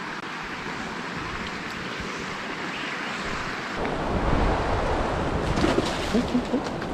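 Wind on the microphone over a steady rushing hiss. About four seconds in, heavy buffeting starts and the noise gets louder.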